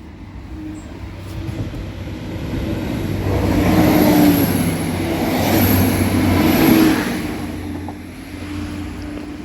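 A train passing over the level crossing: rail and wheel noise swells to a peak in the middle, then fades, over a steady engine hum.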